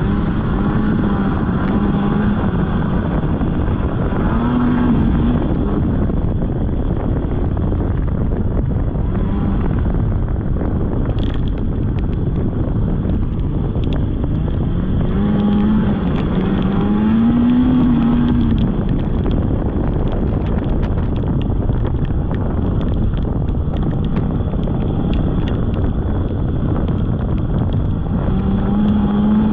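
Polaris snowmobile engine running while riding, its pitch rising and falling with the throttle a little past halfway and again near the end.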